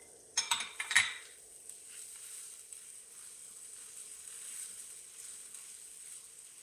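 Rice, onion and bell pepper sizzling in oil in a cast iron pot, with a few sharp clinks of a utensil stirring against the pot in the first second.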